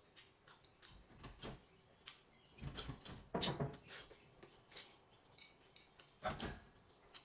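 Eating and food-handling noises: irregular clicks, taps and soft knocks, loudest in a cluster about three seconds in and once more a little after six seconds.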